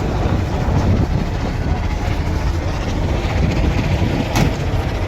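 Strong wind buffeting the microphone, a steady low rumble, with one short sharp knock about four seconds in.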